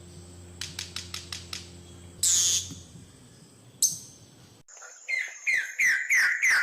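Bird calls from two different birds. The first gives a quick run of about seven dry clicks, a loud harsh buzzy call and a sharp high call. After a sudden cut, a second bird gives loud repeated notes, each sliding downward, about two to three a second.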